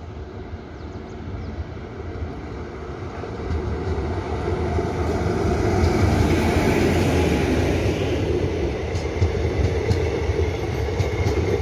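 Electric-hauled passenger train approaching and passing close by at speed: a rush of wheel and rail noise that builds over the first several seconds and stays loud as the coaches roll past, with sharp clicks of wheels over the rails near the end.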